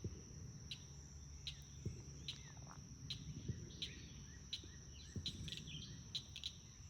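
Insects buzzing steadily, with a short high chirp repeating about every three-quarters of a second. Faint bird calls and a low rumble run underneath.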